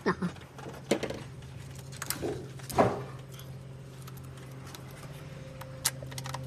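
Scattered metallic clinks and knocks of tools and car parts being handled, the loudest about three seconds in, over a steady low hum.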